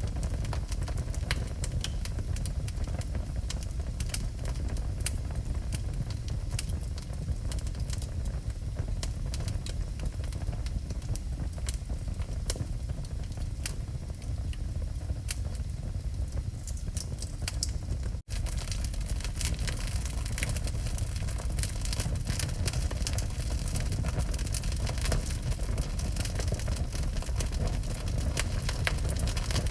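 Wood fire burning in a fireplace: a steady low rumble with frequent crackles and pops, busier in the latter part, broken by a split-second dropout about two-thirds of the way through.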